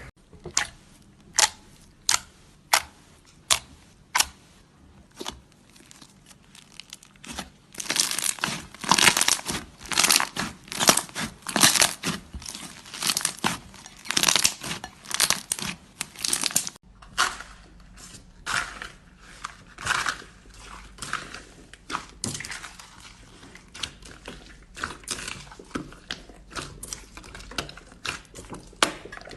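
Slime being pressed and squeezed by hand, giving sharp crackling pops and clicks: a few single clicks at first, then a dense run of crackling about a third of the way in, thinning out later.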